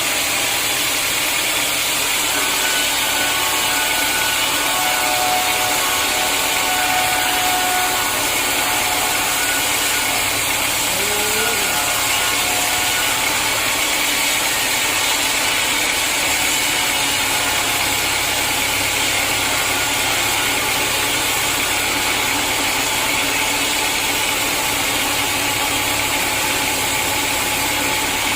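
Sawmill machinery running steadily, a continuous even noise with no break or change in level.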